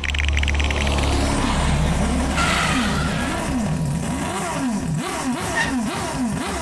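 A sport motorcycle's engine revving up and down over and over, its pitch rising and falling about twice a second, with a fast rattling in the first second.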